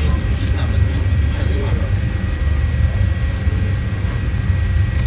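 Steady low rumble and hum of a jet airliner, with several constant high tones over it.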